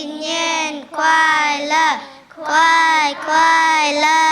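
Child singing a song without accompaniment, in long held notes grouped into short phrases with brief breaks between them.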